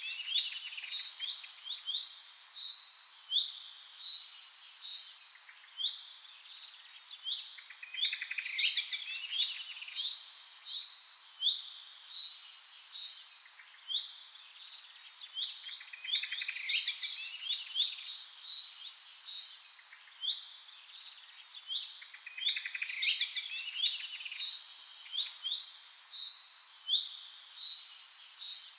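Birds chirping and singing, a mix of short chirps and fast trills. The same run of calls repeats about every seven seconds.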